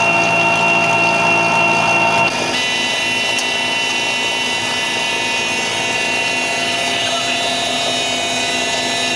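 Mi-8 helicopter's twin turboshaft engines and rotor gearbox running steadily, a loud whine made of several steady tones. The set of tones shifts abruptly about two seconds in.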